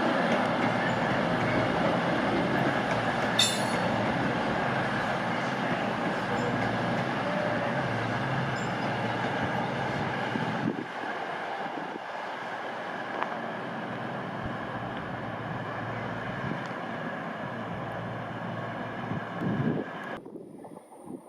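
Train moving through the station: a steady rumble and hum of wheels and traction, dropping a step quieter about halfway through and cutting off shortly before the end.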